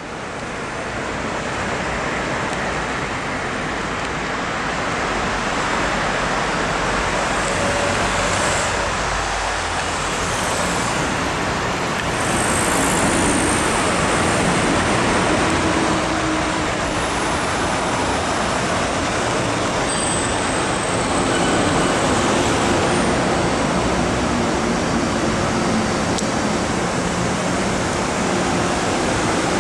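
Steady city traffic noise, with an MTR Kwun Tong Line M-Train running into the station on the elevated viaduct above. A few faint high squeals come in the first half.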